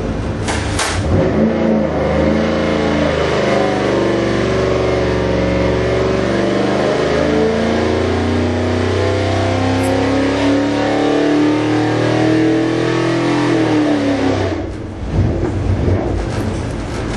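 Ford 351 Cleveland V8 on an engine dyno making a power run: the engine note climbs steadily in pitch for about twelve seconds, then the throttle is shut near the end and it falls back to a low idle.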